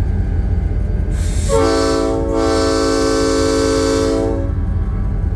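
Diesel locomotive's multi-chime air horn blown once, a chord of several steady notes held for about three seconds, heard from inside the cab. A rush of air comes just before the chord, and the idling engine's low rumble runs underneath.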